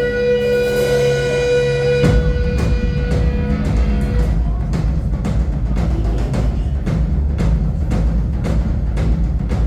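Live band music: a held note rings for about two seconds, then heavy bass and drums play with a steady beat.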